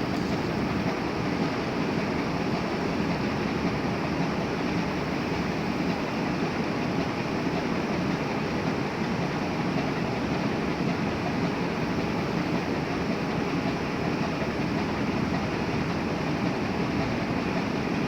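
Steady, even rumble of a diesel motor ship under way, its engine and water noise running without change.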